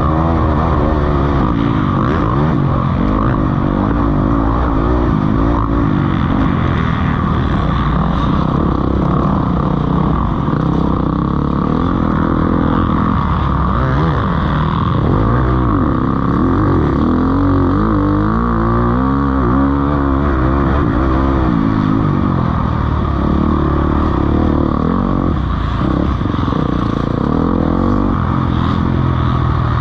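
Several motocross bikes racing around the track, their engines overlapping and continually revving up and down as they accelerate and shift.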